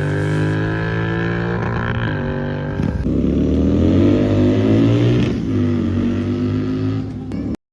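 Royal Enfield Continental GT 650's 648 cc parallel-twin running through an aftermarket Red Rooster Performance exhaust, revved up and down a few times. The sound cuts off suddenly near the end.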